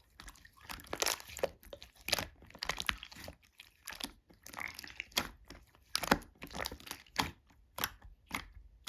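Slime being squeezed, poked and stretched by hand, giving an irregular run of sharp clicks, crackles and pops.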